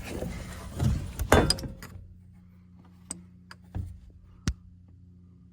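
Hands and tools working under a car while a nut is fitted: about two seconds of rustling with a few sharp metallic clicks, then three more separate clicks and knocks, over a faint steady hum.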